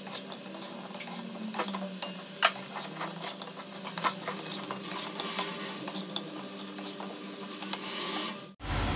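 Chicken pieces sizzling in a wok of sautéed spice paste and sweet soy sauce, stirred with a metal spatula that scrapes and taps against the pan. A steady sizzle with scattered sharp clicks, cut off abruptly near the end.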